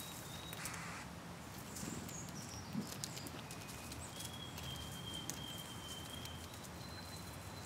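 Small clicks, taps and scrabbling of small rodents moving and feeding at a wildlife feeder outdoors, with a thin high whistle held for about two seconds in the middle.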